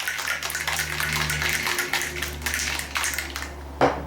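Ice rattling and sloshing inside a cocktail shaker shaken hard, stopping about three and a half seconds in, then a single sharp knock.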